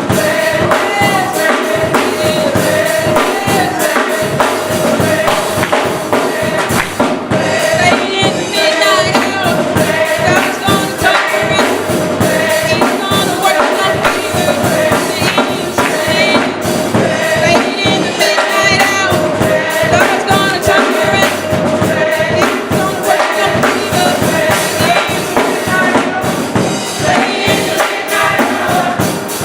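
Gospel choir singing with a band, a steady drum beat and tambourine under the voices.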